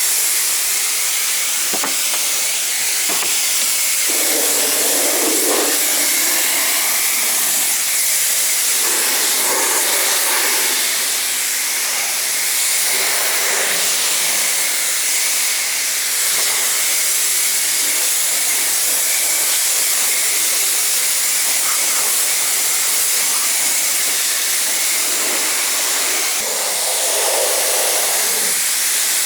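Pressure washer spraying a steady hissing jet of water onto a car to rinse it, its splash changing in tone as the spray moves over the bodywork.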